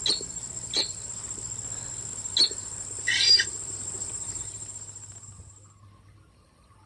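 An insect's steady high-pitched trill that fades away about five seconds in. Three short sharp chirps and one brief chirping burst come in the first half.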